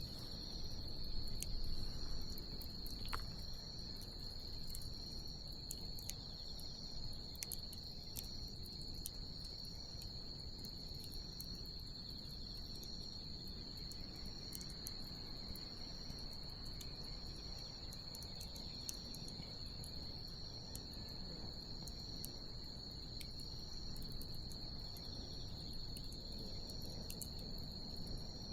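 Crickets trilling steadily and high, with a second insect chirping in short pulses about once a second. Scattered sharp crackles and pops come from a burning wood bonfire over a low, even rumble.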